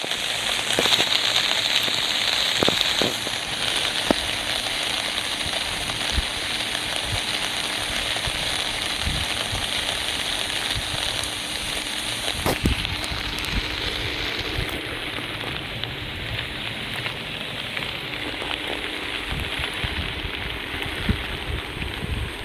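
Steady rain falling, a dense hiss with many small drop ticks and an occasional louder knock of a drip.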